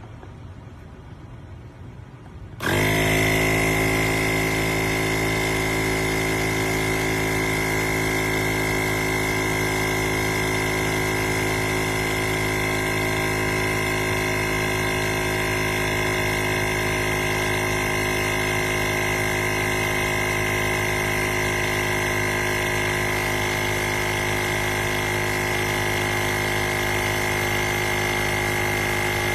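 Inzeetor ITI-001 portable 12V tire inflator switching on nearly three seconds in, then running steadily: a compressor motor hum with a high whine over it.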